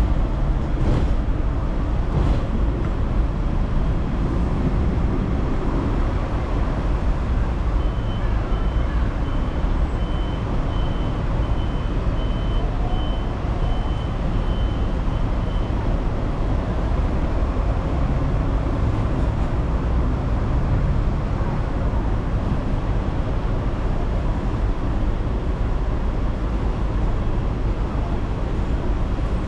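A Hong Kong tram running, a steady low noise of the tram and road traffic. For several seconds in the middle, a high beep repeats about twice a second, then stops.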